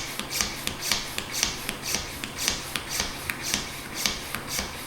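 Small hand pump drawing air out of a vacuum storage bag, short hissing strokes about two to three times a second.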